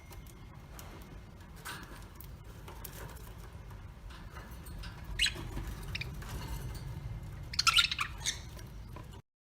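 Small birds calling: scattered short chirps, then a burst of loud, squawky calls about eight seconds in, over a low rumble. The sound cuts off suddenly near the end.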